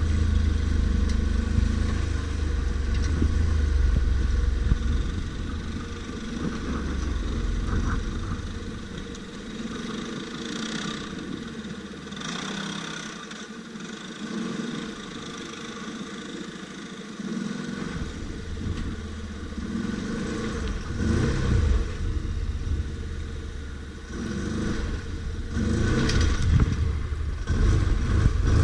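ATV engine running and revving over rough ground, with clatter. The engine note drops low in the middle and picks up again, louder, near the end.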